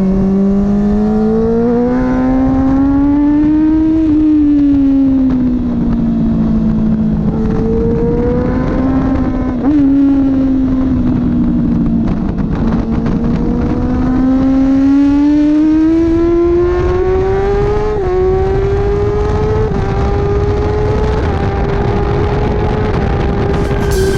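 Kawasaki Ninja ZX10R's inline-four engine at racing pace, heard onboard over wind rush: the revs climb and fall with the corners, then make one long climb with brief dips as it shifts up, and hold high near the end.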